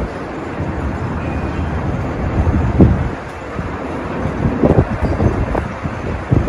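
Storm wind rumbling with uneven gusts buffeting the microphone, surging hardest about three seconds in and again around five seconds.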